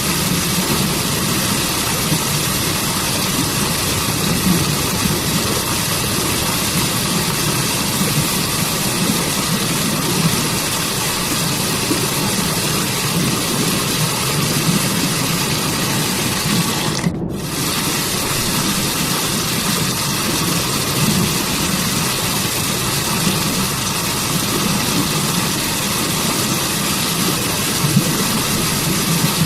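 Waterfall and forest stream: a steady, even rush of falling and flowing water. The upper hiss drops out for a moment a little past halfway.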